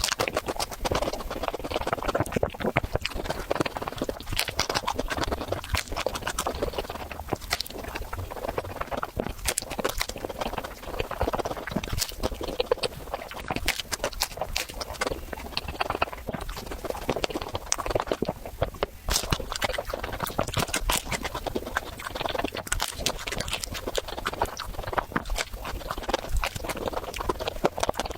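Close-miked chewing and crunching of a crisp waffle, a dense run of crackly bites and chews.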